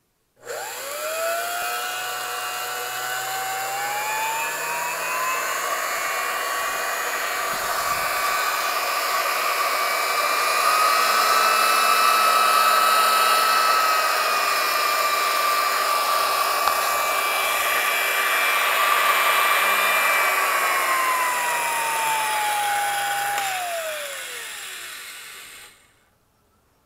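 Vintage 1960s–70s Walita blender's motor running: it starts suddenly, its whine climbing as it spins up over the first several seconds, holds steady, then drops in pitch and dies away as it is switched off near the end.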